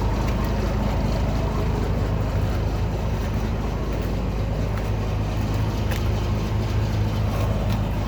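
Late-1980s Mack semi truck's diesel engine idling steadily, a low, even running sound with no revving.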